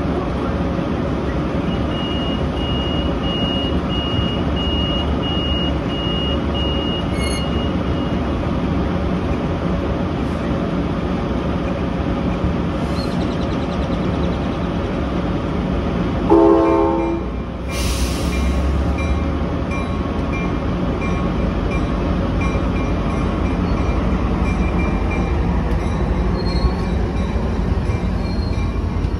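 Trinity Railway Express commuter train at a station platform with its diesel locomotive running steadily; a high beeping tone sounds for several seconds near the start. About halfway through the horn gives a short toot, followed at once by a loud hiss of air, and the train then begins to pull out.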